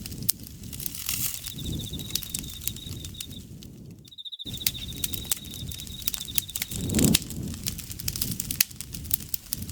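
Campfire crackling with frequent sharp pops over a low rumble of burning, and an insect's high, fast-pulsed trill from about a second and a half in until nearly seven seconds in. All sound drops out for a moment around four seconds in, and a louder low surge of the fire comes about seven seconds in.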